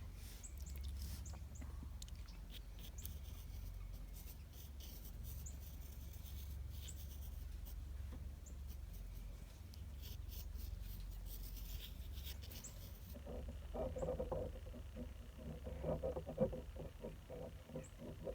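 0.5 mm mechanical graphite pencil scratching on a watercolor card during a sketch, with faint high chirps of small songbirds (goldfinches, house finches) and a steady low rumble underneath. Near the end a dog whines a few times.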